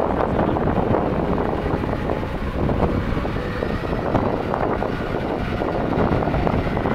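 Jet airliner engine noise, a steady dense rumble with a faint high whine, mixed with wind on the microphone.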